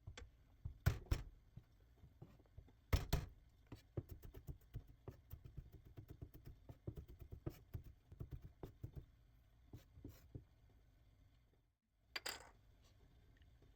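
Food preparation: a run of light knocks and clicks, with a few louder knocks near the start and about three seconds in, and another just after a brief break near the end.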